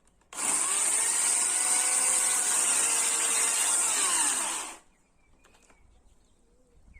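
Chainsaw sawing through wood in one burst of about four and a half seconds. It starts suddenly, runs at steady speed, then its pitch falls as it winds down and stops.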